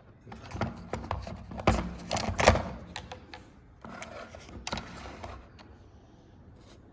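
Plastic clicks and knocks as the battery compartment cover of a small robot vacuum cleaner is opened by hand, the two loudest snaps about two and two and a half seconds in.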